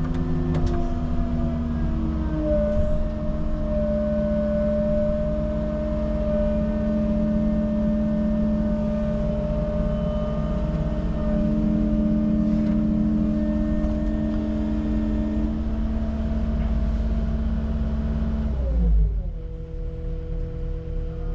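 Tracked construction machine's engine running steadily at high revs with a low rumble, then dropping to a lower speed near the end.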